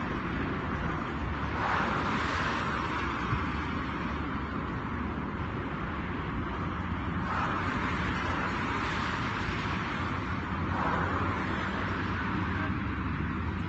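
Road traffic: a steady low rumble with vehicles passing three times, each pass swelling and fading over a couple of seconds.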